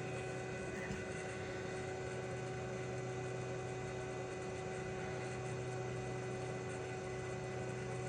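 Small electric blower motor on a soldering rework bench running steadily: an even whir over a low electrical hum, with no change in speed.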